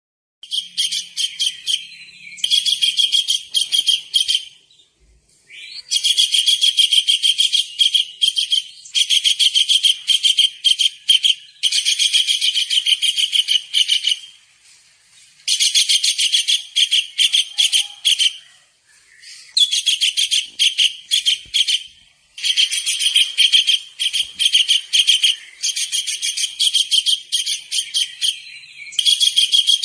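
Kingfisher (tengkek udang) calling: bouts of rapid, shrill, high-pitched notes, each about two to three seconds long, repeated with short pauses between.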